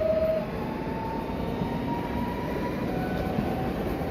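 PESA Dart (ED161) electric multiple unit passing, its wheels on the rails giving a steady rumble under a thin whine. The whine holds one pitch, jumps higher about half a second in and rises slowly over the next couple of seconds.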